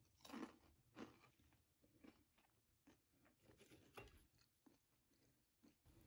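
A person chewing crunchy green snack chips: a series of faint, irregular crunches, the strongest near the start.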